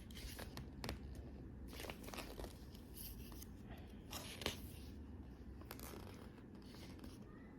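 Faint rustling and handling noises of paper or packaging, with scattered soft clicks and one sharper click about four and a half seconds in, over a low steady hum.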